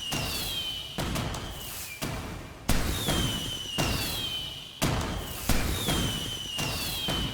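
Fireworks going off: a run of sharp bangs and booms roughly every second, each trailing off, with a whistling tone that falls in pitch three times.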